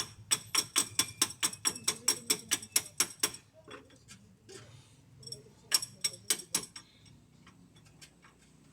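Sharp metallic clicks with a light ring, about four a second, in a steady run for the first three seconds. A few scattered clicks follow, then a shorter run a little past the middle, typical of a hand tool working on steel parts.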